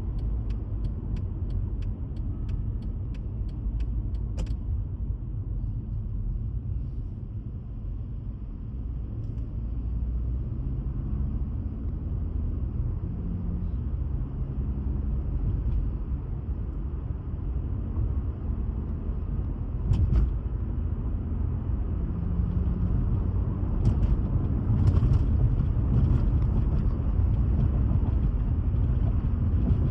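Car driving along a road, a steady low rumble of engine and tyres that grows a little louder toward the end. A light, even ticking runs through the first few seconds, and a few sharp knocks come later.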